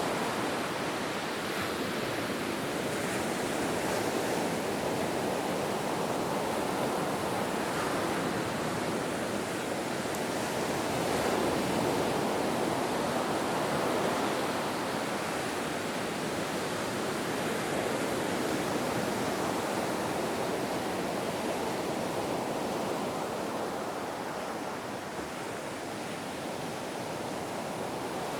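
Ocean surf: a continuous wash of breaking waves, swelling and easing gently every several seconds.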